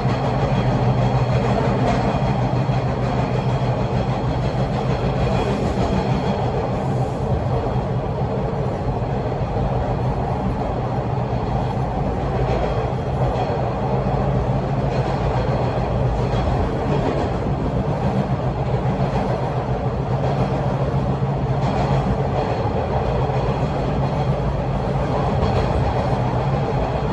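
Bombardier T1 subway train running between stations, heard from inside the car: a steady low running rumble with continuous rattling and knocking vibrations.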